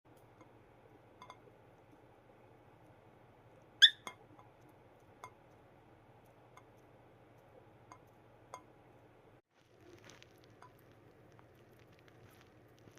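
Cockatiel eating noodles: scattered small clicks and taps of its beak pecking and nibbling, over a steady low hum. A single much louder short, sharp sound comes about four seconds in.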